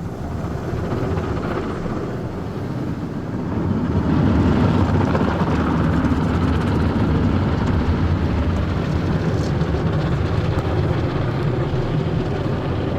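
Automatic tunnel car wash equipment running, heard from inside the car: a steady rushing noise that grows louder about three to four seconds in and then holds.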